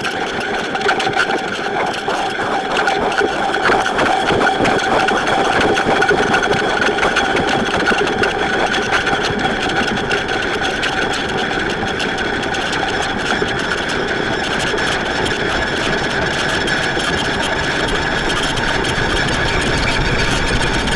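Dense, steady noise-drone music: a grainy, crackling wash with held tones in the middle and upper range, made with effects pedals such as distortion, delay and granular delay.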